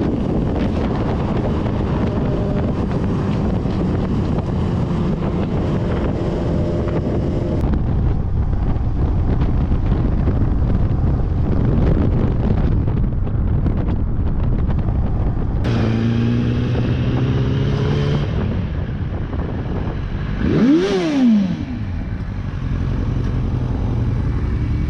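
Motorcycle engine running under way with heavy wind rush on the riding camera, across several clips that change abruptly about 8 and 16 seconds in. A few seconds before the end, an engine note climbs sharply and drops back again.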